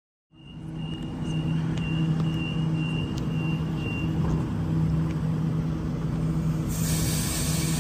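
Sydney Trains electric train at the platform, running with a steady low hum. A faint high whine breaks in and out during the first half, and a loud rushing hiss comes in near the end.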